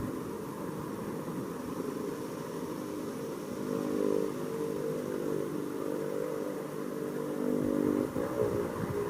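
A vehicle engine running with a steady pitched hum; its pitch dips and rises briefly about eight seconds in.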